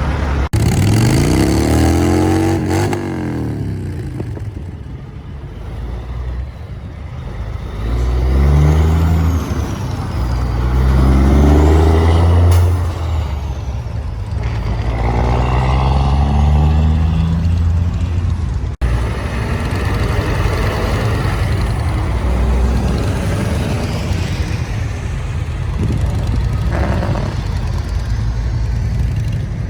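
Semi trucks' diesel engines revving and driving by, the pitch rising and falling several times over a steady low rumble, breaking off abruptly twice.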